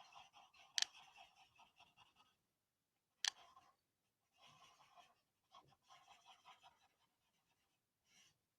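Paper blending stump rubbing on drawing paper in several spells of soft strokes, blending pencil lines into a blur. Two sharp clicks, the loudest sounds, come about a second in and a little past three seconds.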